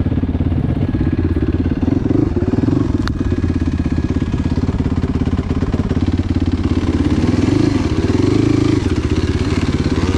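Enduro motorcycle engine running under load as the bike is ridden, the revs rising and falling a little, with a brief click about three seconds in.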